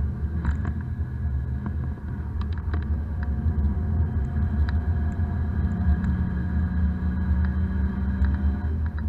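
Daihatsu Esse's 660 cc three-cylinder engine running hard at track speed, heard inside the cabin over a heavy low road rumble, with scattered light rattles. The engine note dips briefly about two seconds in.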